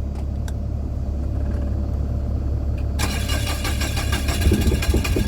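A steady low engine rumble, then about three seconds in the starter of an Onan diesel generator cranks the engine with a rough, rhythmic churning, without it firing: it is not getting fuel.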